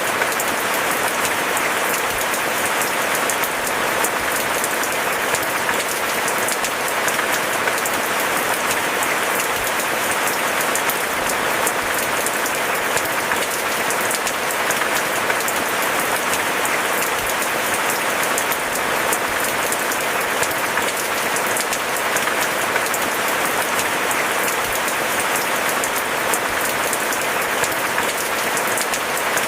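Steady rain: a dense, even patter of many drops with no let-up or change.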